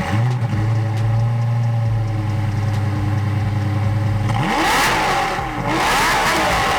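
A car engine holds a steady speed for about four seconds, then is revved up and back down twice in quick succession.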